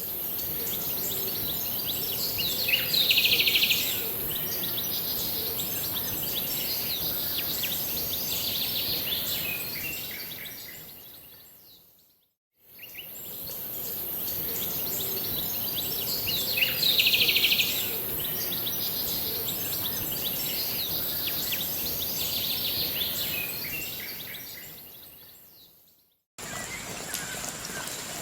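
Birds chirping and calling over a steady high-pitched hiss of bird-park ambience. A stretch of about fourteen seconds fades in and out and then plays again the same way; a different, steadier background cuts in near the end.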